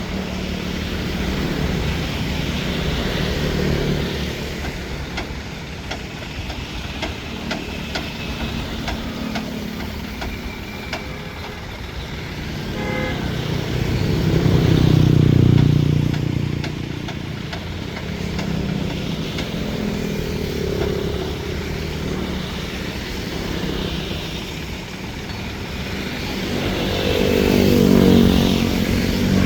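Motor engines running steadily, swelling louder twice as an engine comes close, about halfway and near the end. A short horn toot sounds just before the first swell.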